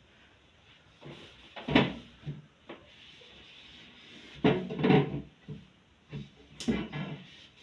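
Irregular knocks and clatter of a fridge's plastic drawers, shelves and door being handled during cleaning, with a loud cluster of knocks about halfway through and more near the end.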